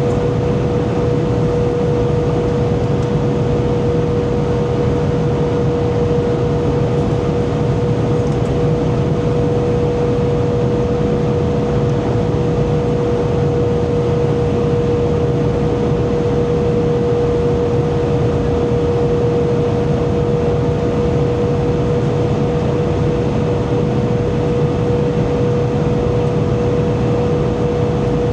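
Airbus A320 cabin noise in flight: a steady rush of engines and airflow, with a constant hum held at one pitch.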